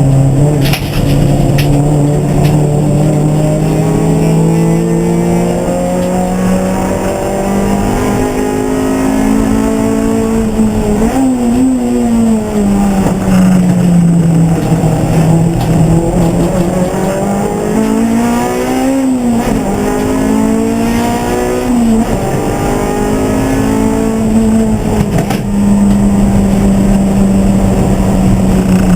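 Racing car engine under load, its pitch climbing slowly through the gears and dropping with short sharp flicks of revs several times, as on downshifts into corners.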